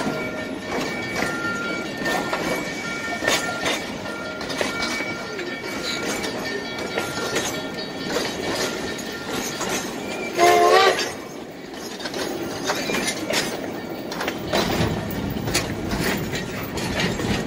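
Durango & Silverton narrow-gauge passenger coaches rolling slowly past, with steady wheel rumble, frequent clicks over the rail joints and thin wheel squeal. About ten seconds in a short, loud, wavering pitched call rises over the rumble.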